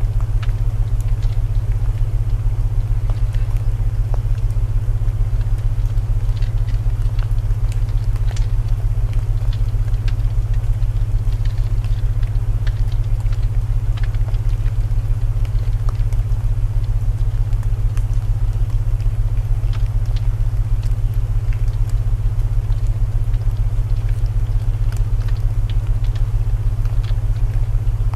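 A loud, steady low binaural-tone hum layered with rain hiss and the scattered crackle of burning wood in a fireplace.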